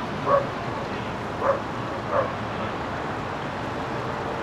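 A dog barking three times in quick, short barks, over a steady background hum.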